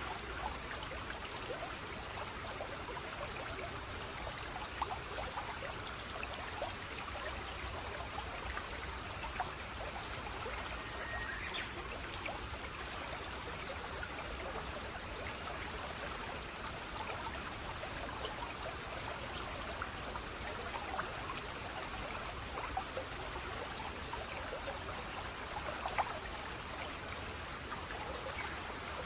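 Water flowing and trickling steadily over stones, like a small stream, with many small splashes and drips.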